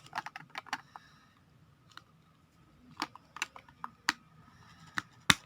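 Plastic toy parts clicking and tapping as a toy globe is fitted onto its stand: a quick cluster of clicks at the start, then scattered single clicks, with the sharpest one just before the end.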